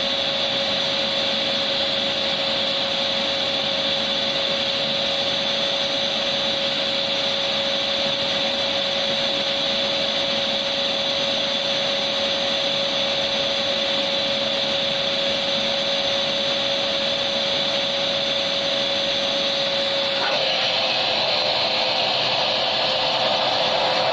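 Vacuum cleaner motor running steadily: an even rushing noise with a steady whine on top. About twenty seconds in, the sound shifts abruptly to a slightly lower, rougher tone.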